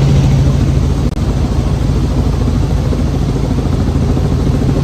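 An engine running steadily, with a loud, constant low hum.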